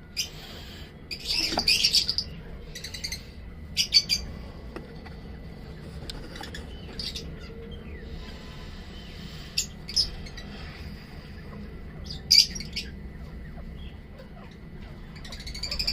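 Pet bird giving short, sharp chirps and squawks in scattered bursts, the longest run about a second and a half in, over a low steady hum.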